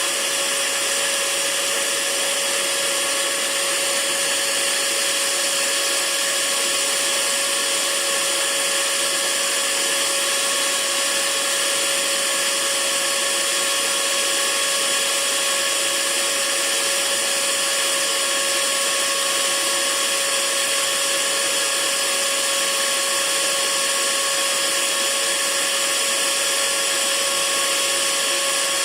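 Hair dryer running steadily, an even rushing blow of air with a faint motor whine, kept on as white noise for lulling a baby to sleep.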